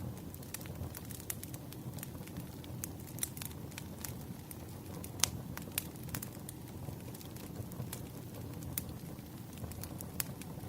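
Wood fire crackling: a steady low rumble of burning logs with irregular sharp pops, the loudest about five seconds in.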